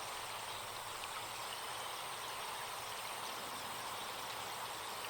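Forest stream flowing, a steady, even rush of water at low level.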